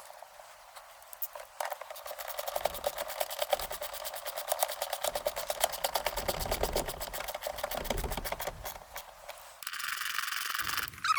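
Ratchet clicking rapidly and evenly for several seconds as nuts are run down onto the shifter cover studs, then about a second of steadier rasping near the end.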